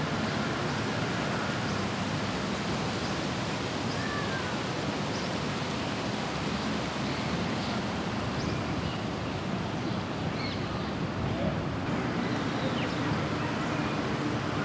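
Steady, even hiss of broad noise with no change in level, and a few faint short high chirps scattered through it.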